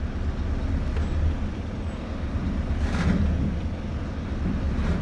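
Scania V8 truck engine running at low revs with a steady low rumble as the tractor unit pulls gently against the coupled trailer's brakes in a tug test, which checks that the fifth wheel has locked onto the kingpin. A short hiss comes about three seconds in.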